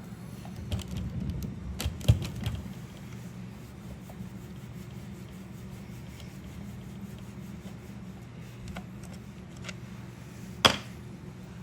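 Scattered clicks and light knocks of hand tools and small metal parts being handled while a Stihl 020 chainsaw is taken apart. The sharpest knock comes about two seconds in and another near the end, over a steady low hum.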